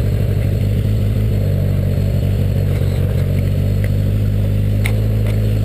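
Motorcycle engine running at a steady speed under way.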